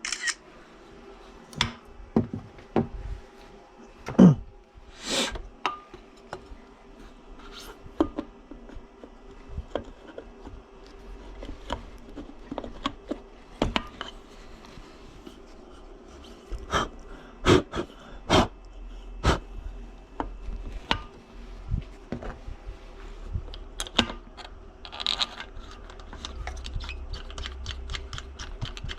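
Irregular clinks, knocks and scrapes of small metal parts and hand tools being handled, over a faint steady hum. There is a loud knock about four seconds in, and a quick run of light ticks near the end.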